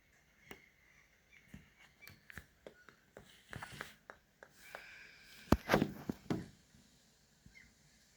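Irregular clicks and knocks with short rustling or scraping stretches, the loudest knocks coming about five and a half to six and a half seconds in.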